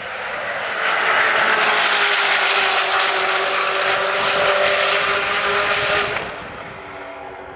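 A sports car's engine at full throttle during a roll-race run. It builds over the first second, stays loud for about five seconds, then drops off sharply just after six seconds in.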